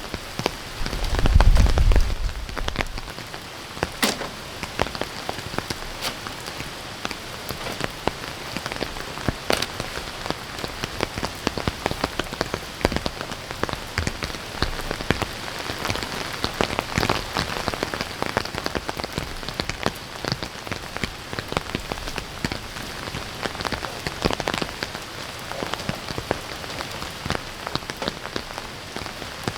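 Heavy rain falling steadily, with many sharp drop ticks pattering on a surface. A low rumble lasts about two seconds near the start.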